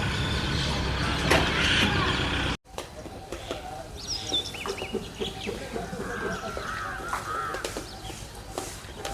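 A loud, dense mix of sound cuts off abruptly about two and a half seconds in. It gives way to birds calling at a nesting colony: scattered high chirps, then short warbling calls near the end, over faint background clicks.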